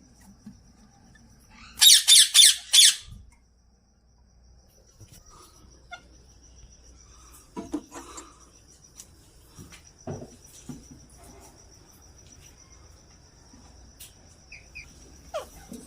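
Ring-necked parakeet giving a loud, harsh burst of about five rapid squawks about two seconds in. After it comes a faint, steady high-pitched trill with scattered light clicks.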